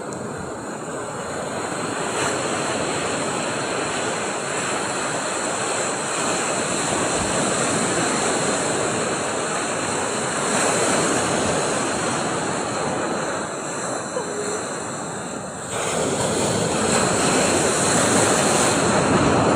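Sea surf washing onto the shore: a steady rush of waves that swells and ebbs, growing louder about three-quarters of the way through.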